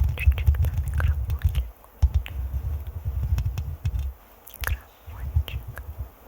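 Fingers scratching and rubbing directly on a microphone: a close, dense low rumble of strokes scattered with sharp clicks, pausing briefly a few times.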